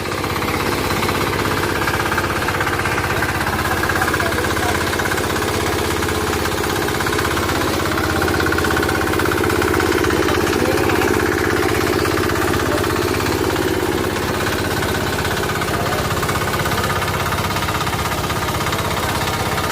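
Engine driving a sugarcane juice machine, running steadily with a fast, even pulse.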